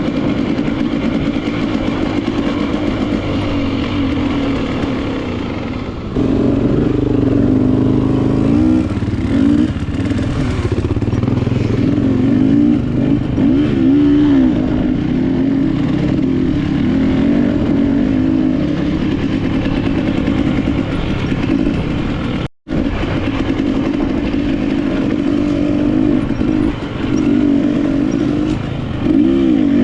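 KTM enduro motorcycle engine running hard on a trail, its pitch rising and falling repeatedly as the throttle is worked. The sound drops out for an instant about two-thirds through.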